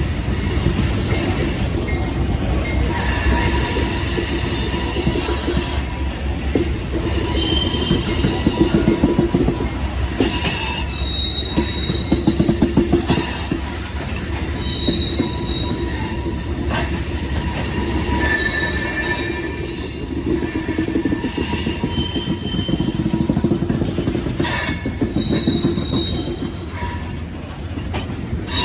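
A rock train's freight cars rolling past, wheels clattering steadily over the rail joints and interchange trackwork, with short high-pitched wheel squeals breaking in many times.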